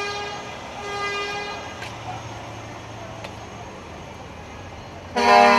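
Vehicle horns being honked: two short, higher-pitched toots in the first second and a half, then a much louder, lower horn blast about five seconds in.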